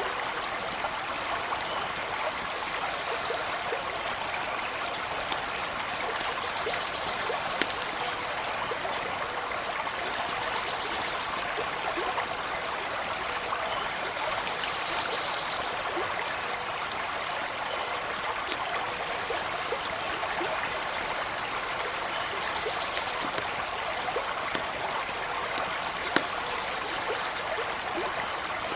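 Small stream running steadily, with scattered sharp crackles of a campfire.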